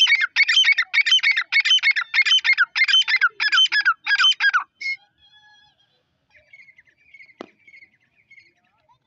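Grey francolin calling: a loud, fast run of repeated harsh, ringing notes, about two to three a second, stopping after about four and a half seconds. Fainter high calls follow, with a single sharp click about seven seconds in.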